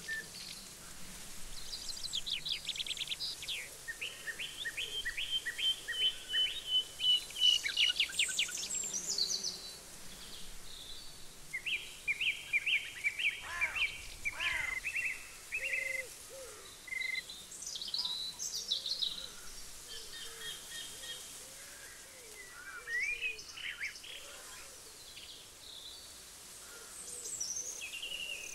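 Several songbirds singing and calling, with rapid repeated notes and trills overlapping one another.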